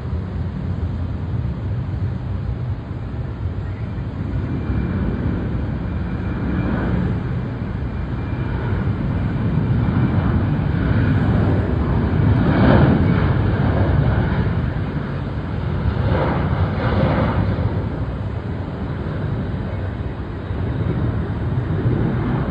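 Boeing 737-900ER's twin CFM56-7B turbofan jet engines at takeoff thrust: a loud low rumble that swells to its loudest about halfway through, with a rougher, tearing surge again a few seconds later.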